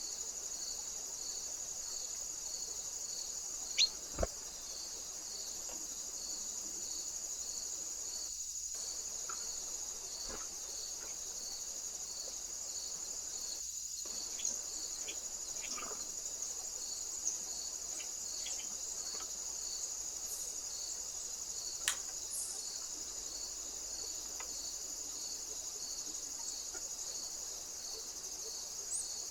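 Insects, crickets or bush crickets, keep up a steady high-pitched chorus with a short chirp repeating about one and a half times a second. A few sharp clicks sound through it, the loudest about four seconds in and again near the twenty-second mark.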